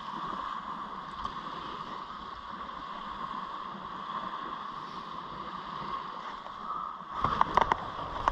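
Steady rushing noise of surf and wind on a beach, with a few loud knocks of handling near the end.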